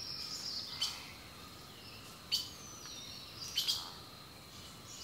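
Birds calling in open countryside: three short, sharp high chirps spaced a second or so apart, with thin, high, slowly falling whistles and a faint steady outdoor background.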